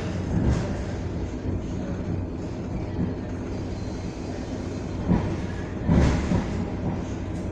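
Suburban electric train running along the track, heard from inside the carriage: a steady low rumble with a few short louder knocks, the loudest about six seconds in.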